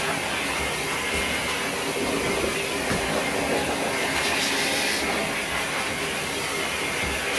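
Pet blow dryer running, a steady loud rushing hiss of air.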